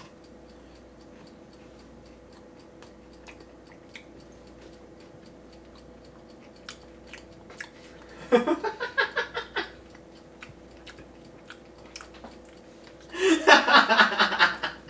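A man chewing a mouthful of deep-fried chicken liver, with faint wet clicks of the mouth. About eight seconds in, and louder near the end, he breaks into short wordless vocal outbursts.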